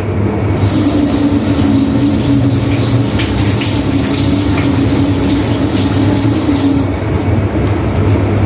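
Water running from a tap for about six seconds, starting a little under a second in and stopping about a second before the end. It carries a steady pipe tone, and a steady low hum runs underneath.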